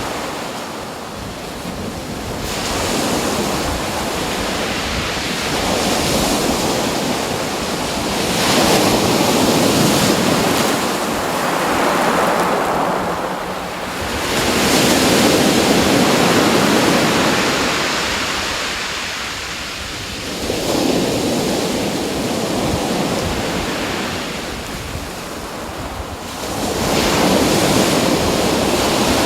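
A loud rushing noise, like surf or wind, that swells and ebbs in long surges about every five seconds.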